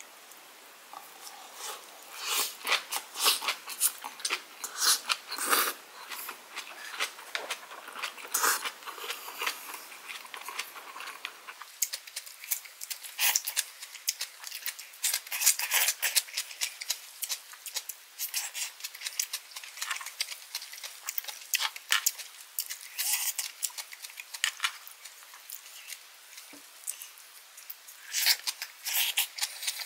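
Close-miked chewing of kimchi with Spam and rice: wet, crunchy crackles and mouth smacks in an irregular run.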